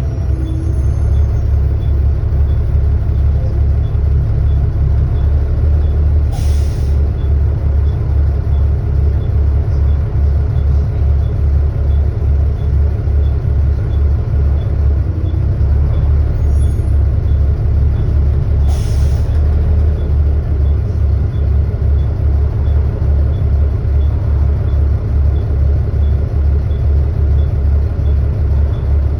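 Volvo B7TL bus's six-cylinder diesel engine running under way, heard loud from aboard: a steady, even low throb, the engine noise enthusiasts call a 'hoover'. Two short air hisses come about 6 and 19 seconds in.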